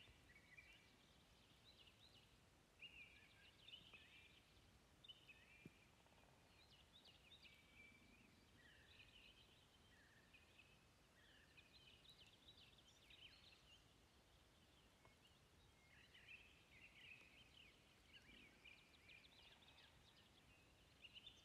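Near silence with faint birdsong: small birds chirping in short, high, quick phrases throughout.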